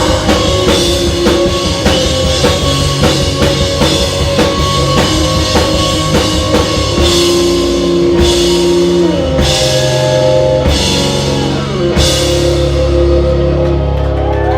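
Live rock band playing loud: drum kit and guitars driving a fast beat, then switching to big crash-cymbal hits on held chords about every second and a half. The chords ring out near the end, like the close of a song.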